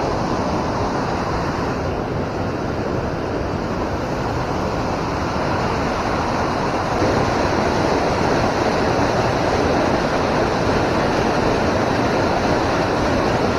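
Steady rush of flowing river water, slightly louder about halfway through.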